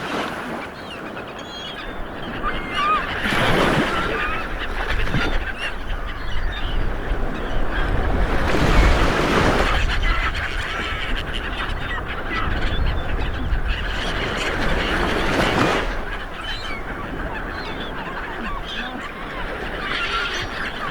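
Sea waves breaking and washing in, with three big surges, while birds call repeatedly in short honking calls over the surf.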